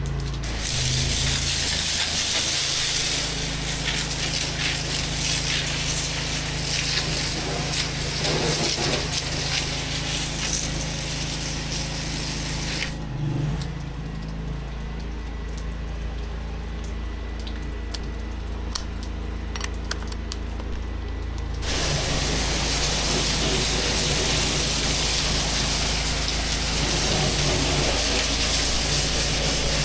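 Pressure washer engine running steadily while high-pressure water sprays with a loud hiss; the spray cuts off about 13 seconds in, leaving the engine alone, and starts again about 9 seconds later.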